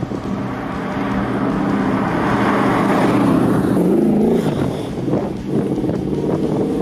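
V8 engine of a VW conversion running and revving: it builds in loudness over the first few seconds, drops in pitch about four seconds in, then rises and falls unevenly.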